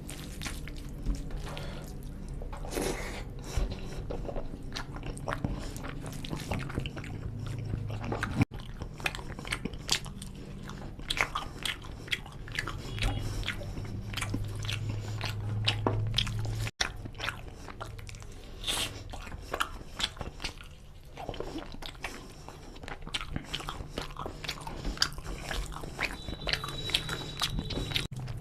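Close-miked chewing of rice and chicken curry, with many irregular wet mouth clicks and the soft squish of curry-soaked rice being mixed by hand. The sound drops out briefly twice.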